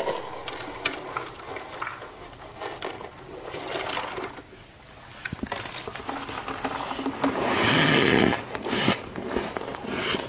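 Thick deep-freezer frost being scraped and crunched: a dense run of squeaky, crackling scrapes, with one louder, longer scrape a little past seven seconds in.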